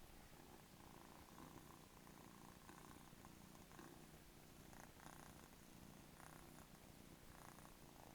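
A cat purring, faint and steady.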